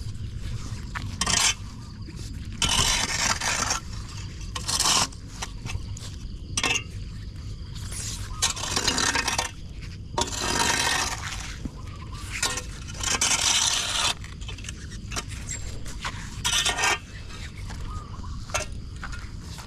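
A hand tool scraping and clinking against a metal storm drain grate in repeated, irregular strokes, some short and some lasting about a second, as clogging debris is cleared. A steady low rumble runs underneath.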